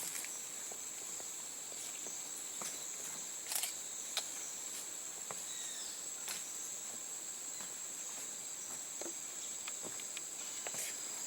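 Rainforest insects keeping up a steady, high-pitched drone, with scattered faint clicks.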